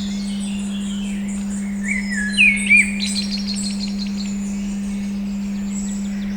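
A steady 200 Hz pure tone, a meditation frequency, holds unbroken under recorded birdsong. The birds give scattered chirps, a pair of swooping calls about two and a half seconds in, then a fast trill.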